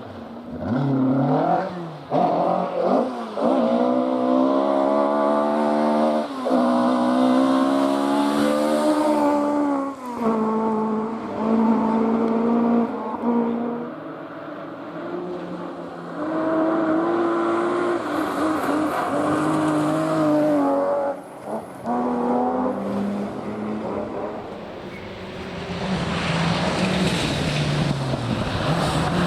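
Rally car engine revving hard along a stage, its pitch climbing and dropping back repeatedly with gear changes and lifts, with tyre noise on the loose surface.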